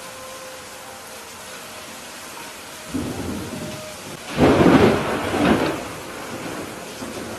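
Steady rain with thunder: a first rumble about three seconds in, then a louder thunderclap about a second and a half later that rumbles away over a couple of seconds.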